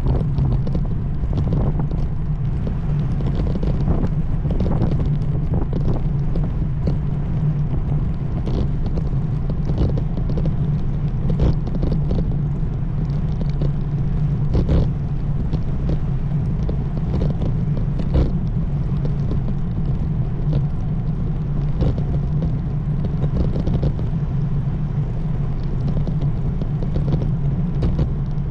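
Steady low rumble of wind and tyre noise picked up while riding a road bike, with scattered small knocks and rattles from bumps in the path.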